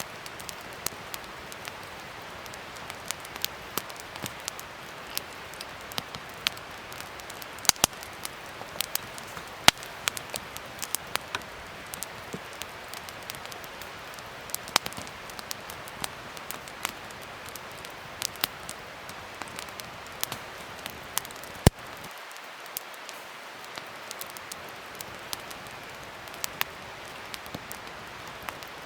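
Wood fire crackling: a steady soft hiss under frequent, irregular sharp pops and snaps, a few of them much louder than the rest.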